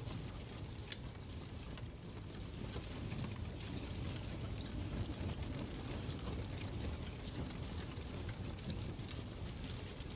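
Fireplace ambience: a steady low rumble of a burning fire with many small scattered crackles and clicks.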